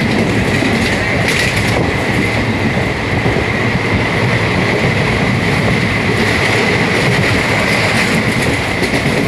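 Train running on the rails, a steady loud roar with a continuous high whine and some clattering of the wheels.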